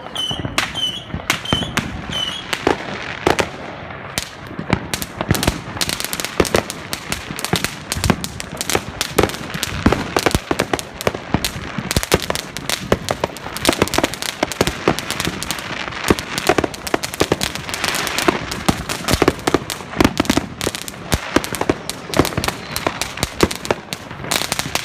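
Fireworks going off in rapid succession: a dense, continuous crackle of many sharp bangs, one after another without a break.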